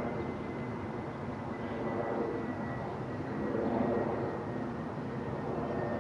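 Aeroplane flying overhead: a steady rushing drone with a thin high whine that slowly slides down in pitch.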